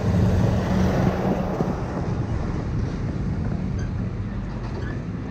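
Street traffic with a vehicle engine rumbling close by, loudest in the first couple of seconds and then easing, with wind noise on the microphone.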